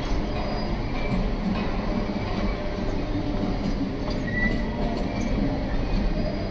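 Container wagons of a long freight train rolling past on the rails: a steady rumble of wheels on track, with a few short high wheel squeals.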